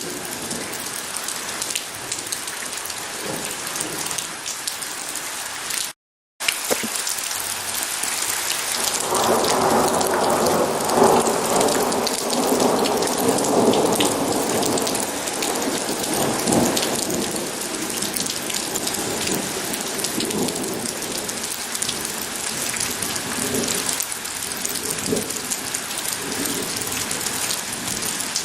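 Steady rain falling, with thunder rolling for several seconds from about nine seconds in. The sound cuts out completely for half a second about six seconds in.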